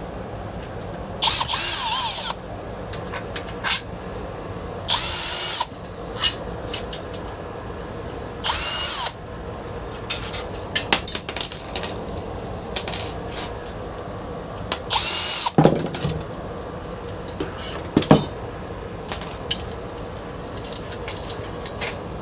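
Power drill-driver backing screws out of a ceiling fan's housing in four short runs of about a second each, its motor whine bending in pitch. Clicks and knocks of screws and metal parts being handled fall between the runs.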